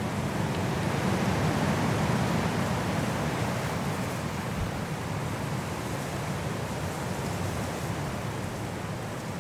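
Strong wind blowing through forest trees in a mountain snowstorm, a steady rush that swells into a gust about a second in and slowly eases.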